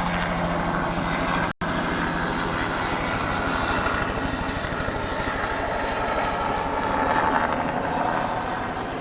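Spraying helicopter's rotor chopping steadily in rapid, even pulses, with a brief break in the sound about one and a half seconds in.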